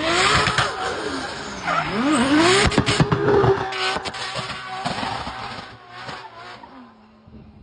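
High-performance car accelerating hard up a hill climb, its engine revs rising and dropping through gear changes. Sharp exhaust cracks come about three and four seconds in, then the sound fades as the car moves away.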